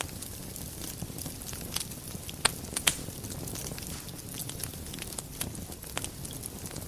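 Wood fire in a fireplace crackling steadily over a low rumble of the flames, with many small clicks and two louder pops close together near the middle.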